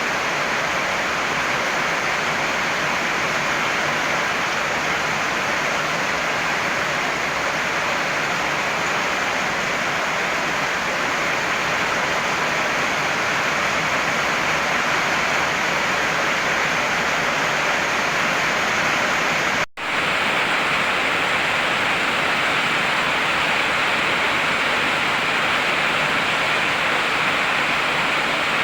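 Heavy rain falling steadily, a dense even hiss. It cuts out for a split second about twenty seconds in and then carries on.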